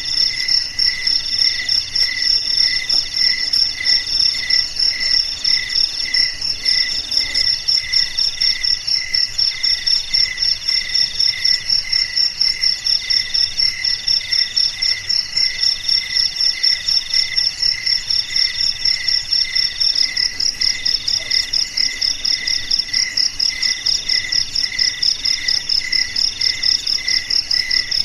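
Several crickets chirping together at different pitches: a high, fast pulsing trill, a lower chirp about twice a second, and a mid-pitched trill in stretches about a second long with short breaks.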